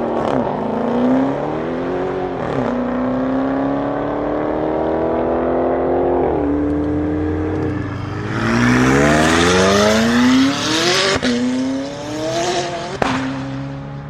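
A performance car engine accelerating hard through the gears, its pitch climbing and then dropping sharply at each of several upshifts. About eight seconds in, a loud rushing hiss joins it for a few seconds, and two sharp cracks come near the end.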